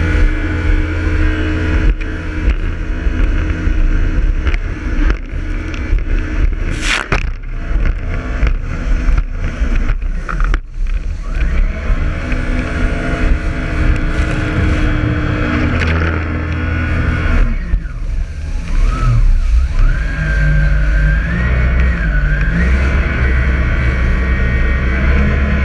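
Jet ski engine running hard with a heavy low rumble, its pitch steady for a long stretch, then dipping and stepping up and down near the end as the throttle changes.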